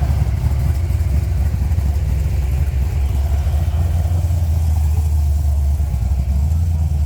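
Car engine idling steadily, a loud, deep exhaust note that pulses rapidly.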